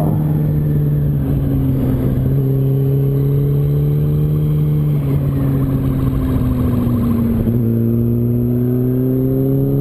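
Yamaha R1 inline-four engine running steadily while riding, over wind and road noise. The engine pitch sags gently, then steps and climbs again about seven and a half seconds in.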